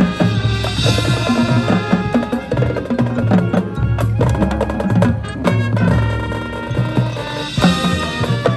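High school marching band playing: sustained wind and brass chords over the drum line and front-ensemble percussion, with many sharp drum and wood-block strokes.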